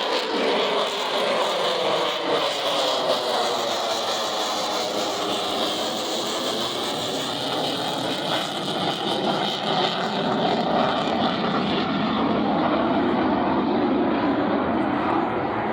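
Military fighter jet's engine noise as it flies a demonstration pass, a loud continuous rush with a slowly shifting pitch, its high end fading in the last few seconds as the jet moves away.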